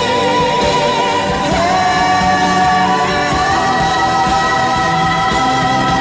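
Singing over instrumental accompaniment, the voice holding long notes that move to a new pitch about one and a half seconds in and again about three and a half seconds in.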